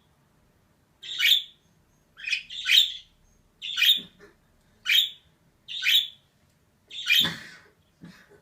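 Female budgerigar giving short, sharp chirping calls, about one a second; the call about seven seconds in is longer and louder than the rest.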